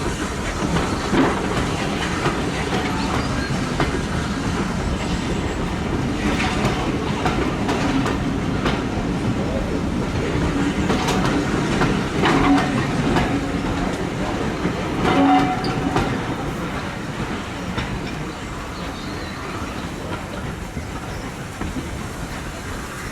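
A train running past, its wheels clattering over the rail joints with scattered sharp clicks. It eases off a few seconds after the middle.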